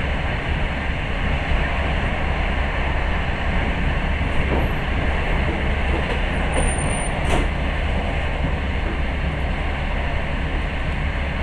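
Passenger train running at speed, heard from inside the carriage: a steady rumble of wheels on the rails, with a couple of sharp clicks about four and seven seconds in.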